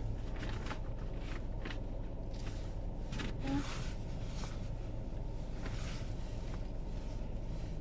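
Car driving on a snow-covered road, heard from inside the cabin: a steady low rumble of road and engine noise, with a few faint rustles or clicks.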